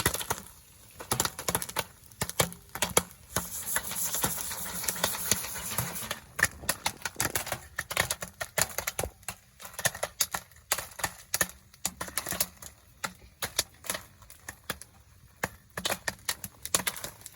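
Jiffy Pop popcorn popping in its foil pan on the stove: many sharp, irregular pops one after another.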